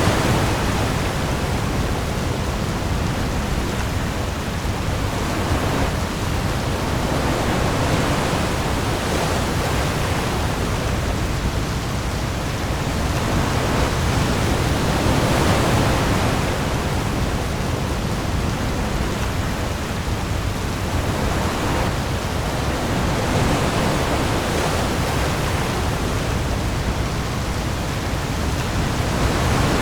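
Heavy rain pouring onto the sea in a steady dense hiss, with waves that swell and ebb every several seconds over a deep low rumble.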